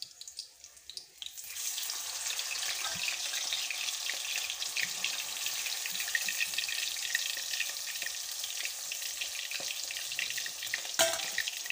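Food sizzling in hot oil in a wok, starting suddenly about a second in as the ingredients go in, then a steady hiss while it is stirred with a metal spatula. A sharp knock of the spatula on the pan near the end.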